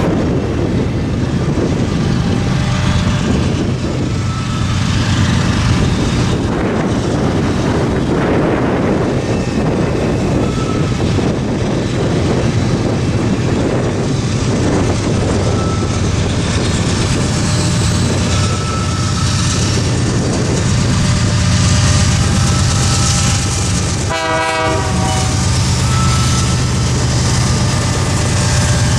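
Canadian Pacific train rolling past close by: steady loud rumble of diesel locomotives and rail cars throughout. A brief pitched tone sounds about 24 seconds in.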